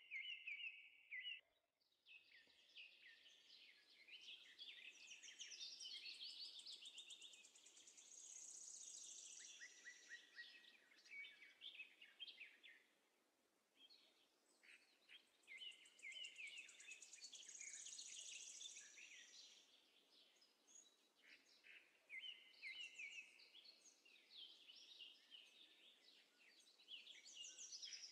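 Faint birdsong: several birds chirping and trilling at once, in quick overlapping high-pitched phrases.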